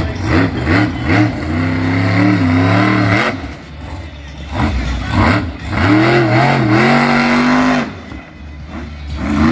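Monster truck's engine revving in repeated throttle bursts: a few quick blips, then two longer revs held high that each fall back as the throttle closes, settling to a lower note near the end.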